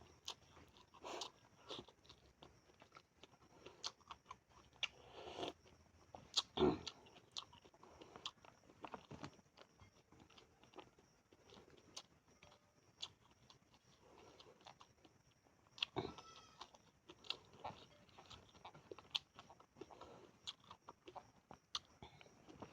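A person eating close to the microphone, chewing and smacking with irregular wet clicks, and now and then a louder crunch, likely sardine (tamban) with corn rice.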